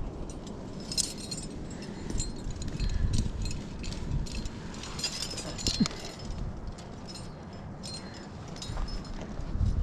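Metal climbing hardware, carabiners and gear on a harness, clinking and jingling in irregular bursts over a low rumble.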